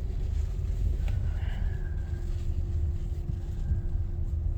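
A car running, giving a steady low rumble with a faint even hum above it.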